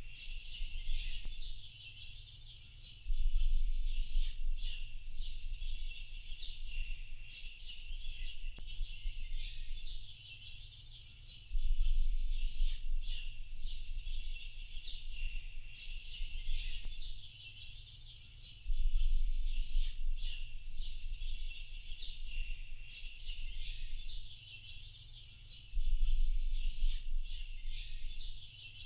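A dense, continuous chorus of small birds chirping and twittering, with a low rumble swelling up about every seven to eight seconds, which is the loudest part.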